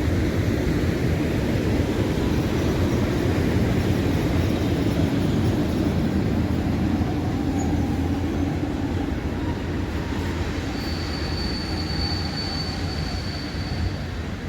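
Passenger train hauled by an EP09 electric locomotive rolling through a station with a steady rumble of wheels on rail. A thin, high wheel squeal is held for a few seconds near the end.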